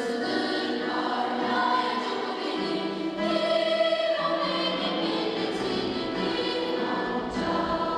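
A choir singing slowly, many voices holding long notes that change pitch every second or two.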